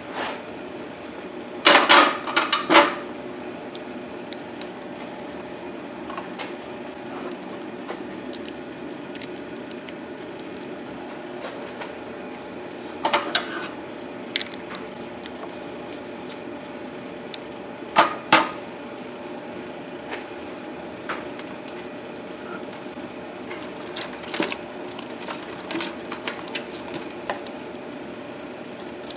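Hand tools and small metal parts clicking and clinking a handful of times, loudest twice near the start and again about halfway through, over a steady hum.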